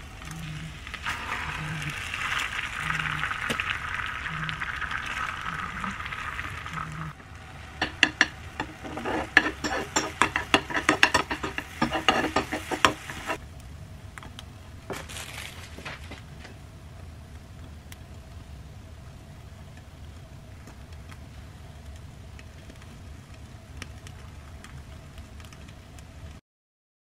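Egg-soaked bread frying in a pan, sizzling steadily. About seven seconds in, a quick run of sharp clicks and taps lasts several seconds, then a fainter sizzle continues until the sound cuts off just before the end.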